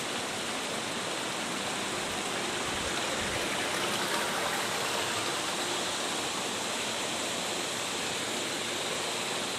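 Hot-spring water running steadily into an outdoor foot bath, an even rushing with no breaks.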